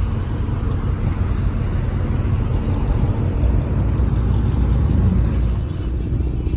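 Car engines running steadily, a low, even rumble.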